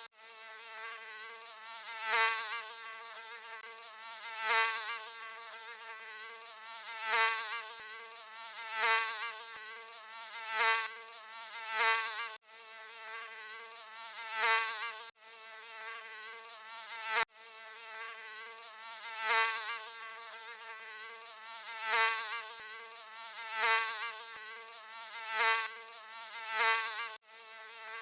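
Mosquito whine from its beating wings: a steady, high buzzing hum with many overtones that swells louder about every two seconds. It cuts out abruptly for an instant a few times.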